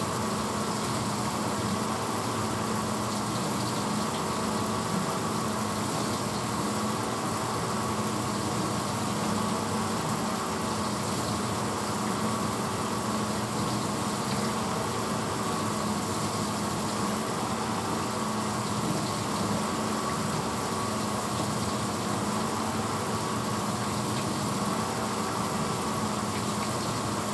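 1986 Hotpoint Potwasher dishwasher running steadily mid-cycle: an even motor hum under the hiss of water spraying inside the tub.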